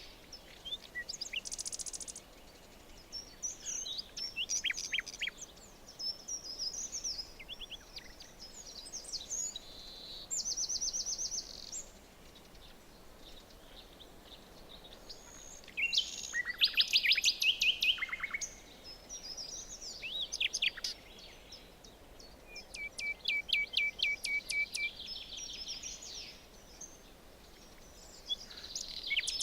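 Several forest birds singing and calling over a faint steady hiss of background noise: varied short phrases, quick trills and rapidly repeated notes, with the loudest burst of song a little past the middle.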